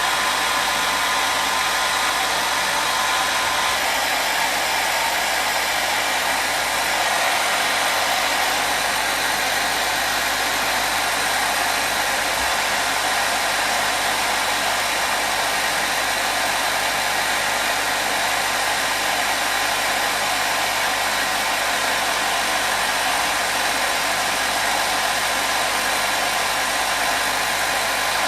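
Hair dryer running steadily: an even, unbroken whooshing noise. A thin whine in it drops out about four seconds in.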